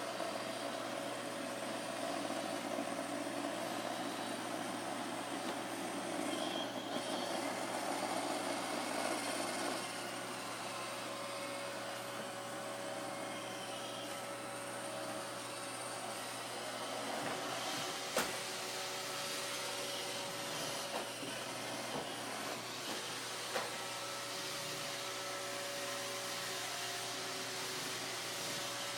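Roomba robot vacuum running steadily with a whirring hum, with a few sharp knocks in the second half as it bumps into furniture.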